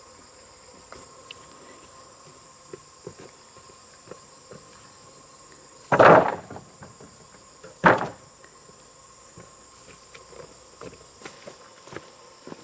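Steady high-pitched insect drone with light scattered clicks. Two loud knocks about two seconds apart, like hard objects struck or set down, stand out from it.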